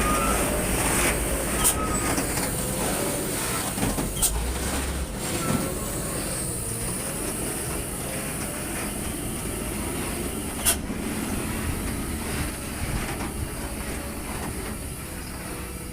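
Heavily loaded Hino truck creeping downhill: a steady low engine rumble with a faint wavering whine over it, and a few sharp clicks or knocks.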